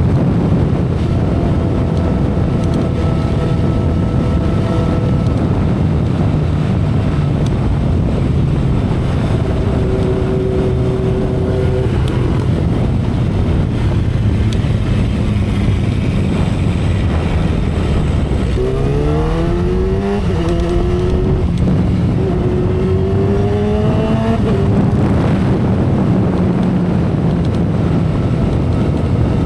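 2012 Kawasaki Ninja ZX-10R's inline-four engine running at expressway speed under heavy wind rush. About two-thirds of the way in, the revs climb quickly, dip, and climb again before settling back to a steady cruise.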